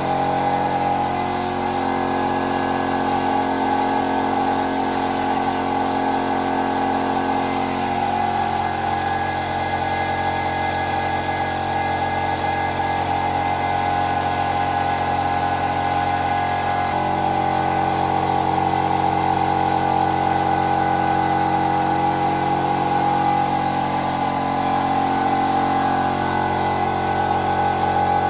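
A power tool's electric motor running steadily for the whole stretch, its hum shifting slightly in tone twice before it cuts off.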